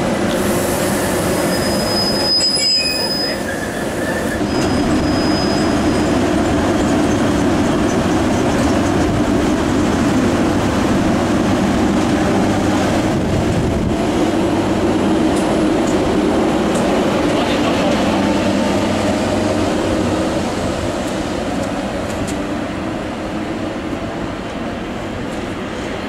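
Electric locomotive-hauled passenger train of a Class 90 and Mark 3 coaches running along the platform, a steady loud rumble of wheels on rail, with a brief high wheel squeal a couple of seconds in and again around five seconds.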